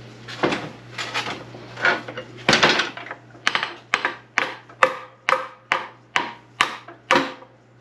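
Hammer blows on the metal parts of an SM465 manual transmission being disassembled: a few irregular knocks, then about ten steady strikes, roughly two a second, with a short metallic ring.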